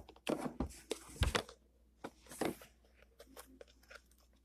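Stiff, over-activated jello-like slime being squeezed and pulled in the hands, giving short sticky clicks and crackles, most of them in the first second and a half, with one more burst about two and a half seconds in.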